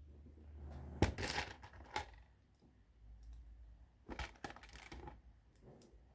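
Small plastic LEGO pieces clattering and clicking as they are handled, in a burst of rattling about a second in, a single click about a second later, and another rattling burst about four seconds in.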